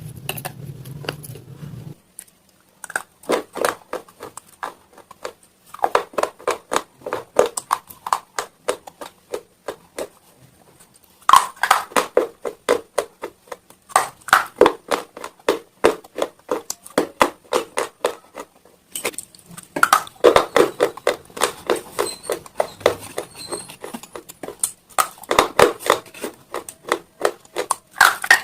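Close-up chewing of hard, brittle slate stone: rapid dry crunches, several a second, in bursts of a few seconds, with short pauses between mouthfuls.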